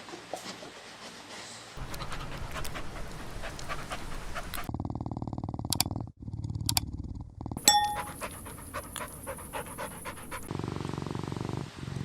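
Small puppies panting fast, in a run of short clips one after another. About eight seconds in there is a single sharp, high squeak.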